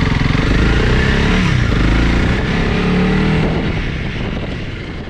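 Honda CRF300 Rally's single-cylinder engine running under a rider. The engine pitch drops and climbs back about a second and a half in, then the sound fades away near the end.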